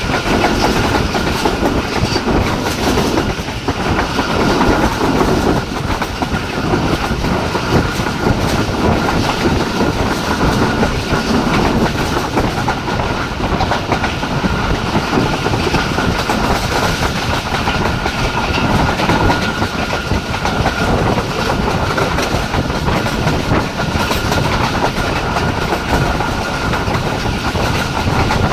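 Passenger express train running at speed: a steady rumble and clatter of wheels on the track, with a thin steady whine above it.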